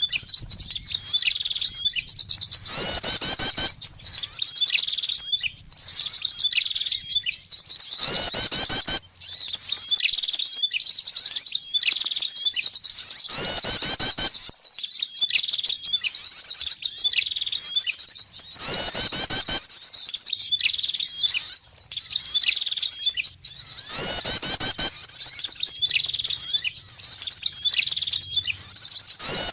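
Bird-lure recording of small songbirds, prinia among them, chirping densely and rapidly at high pitch, with a louder harsh burst about every five and a half seconds.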